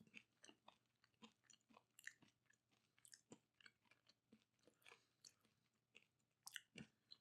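Faint crunching and chewing of a crisp rusk (Zwieback) in the mouth, a scatter of irregular small crackles.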